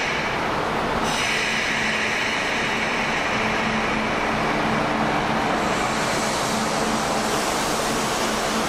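A Kintetsu Urban Liner limited express electric train moves along an underground station platform with a steady rumble of running gear. A high whine sits over it from about a second in and fades out midway.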